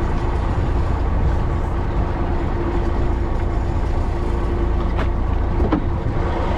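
Fishing boat's engine running steadily: a low drone with a constant hum. A few faint clicks come about five seconds in.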